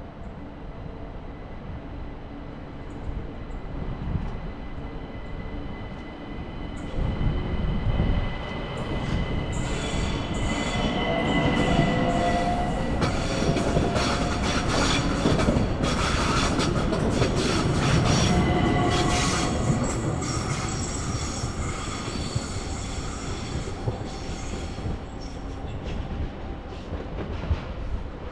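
S-Bahn electric train running through the station, growing louder for about ten seconds and then easing off, with high-pitched wheel squeal and clicking of wheels over rail joints and points.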